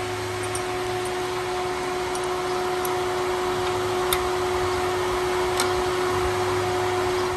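A steady mechanical hum holding one constant tone, with a few light, sharp clicks scattered through it.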